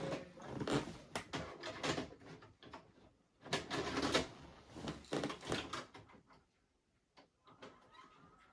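Irregular clattering clicks and knocks of handling, thinning out after about six seconds, with a faint steady high tone coming in near the end.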